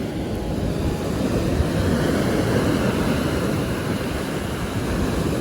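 Wind on the microphone, with a steady low rumble, over the wash of Caspian Sea waves on the shore.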